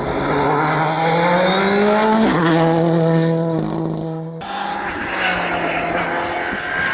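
Rally car engine accelerating hard, climbing in pitch with a quick gear change about two seconds in. It holds high revs, lifts off sharply about four and a half seconds in, then builds again.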